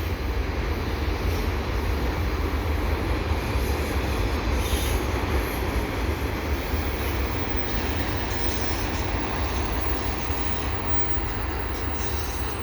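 CN freight train of empty autorack cars rolling past at track side: a steady rumble of steel wheels on the rails, with no sudden knocks or changes.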